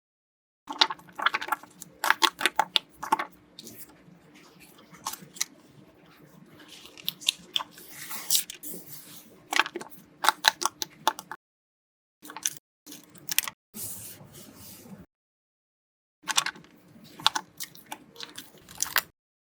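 Paper crinkling and rustling with sharp crackles as a handmade paper blind bag and its paper pieces are handled and opened. The sound comes in several runs separated by brief silences.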